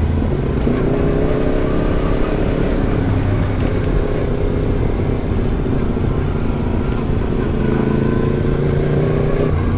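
Yamaha MT-10's crossplane inline-four engine with an Arrow aftermarket exhaust, running under way at a fairly steady pitch. Its note changes abruptly near the end.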